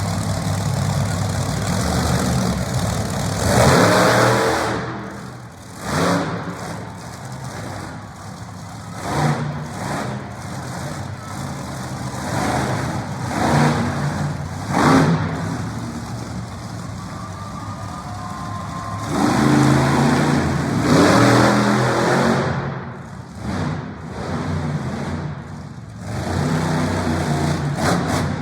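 Monster truck engine running at a low idle and revving hard in repeated bursts, with two longer full-throttle runs in the second half.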